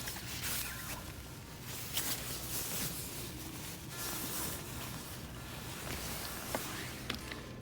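Irregular rustling and scuffing, with a few light clicks.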